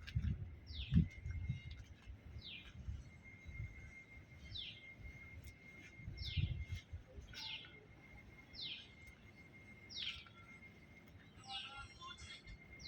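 A bird repeating a short, high call that sweeps downward, about once a second, over an uneven low rumble.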